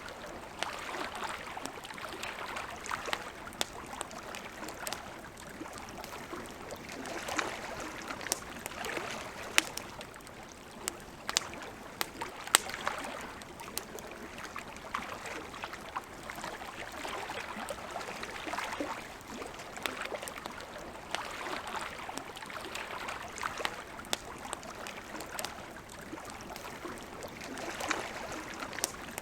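Campfire crackling, with frequent sharp pops at irregular intervals, over a soft wash of lake water lapping that swells and fades every few seconds.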